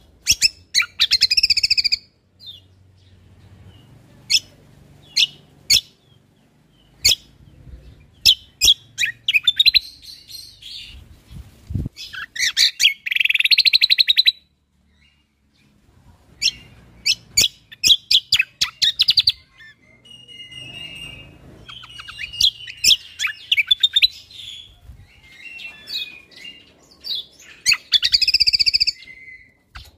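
Cucak kombo (kecial kombok) songbird singing in loud bursts: fast trains of sharp, clicking 'shot' notes and warbled phrases, with brief pauses between them.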